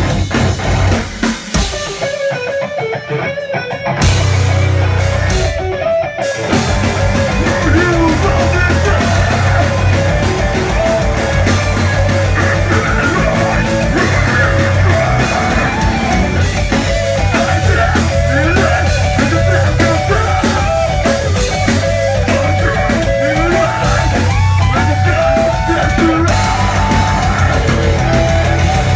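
Live heavy rock band playing: distorted electric guitars, bass and drum kit, with a lighter break for the first few seconds before the full band comes back in at full volume about four seconds in.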